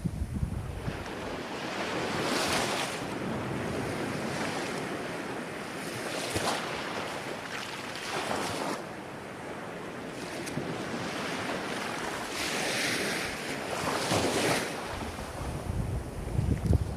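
Ocean waves breaking and washing in, in repeated surges of hiss every few seconds. Wind rumbles on the microphone near the start and again at the end.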